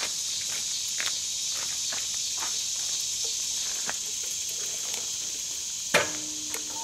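Steady high-pitched insect buzzing, with footsteps crunching on a gravelly road shoulder for the first few seconds and a single sharp clack about six seconds in as the rider settles onto the motorcycle. The engine is not yet running.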